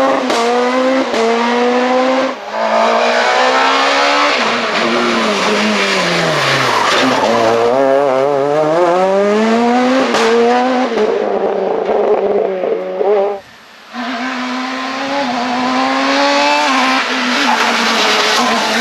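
Super 2000 rally car's naturally aspirated two-litre four-cylinder engine at full throttle on a stage. The revs climb and fall through gear changes, drop away under braking about six seconds in, then pull up again, with a few sharp cracks on the shifts. The sound drops out briefly about thirteen seconds in, then the engine is screaming at high revs again.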